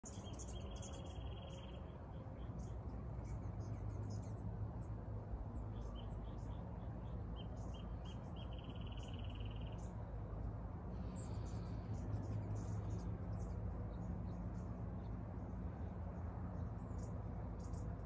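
Small birds chirping with short high calls, with a rapid trill heard twice, about a second in and again about nine seconds in, over a steady low background rumble.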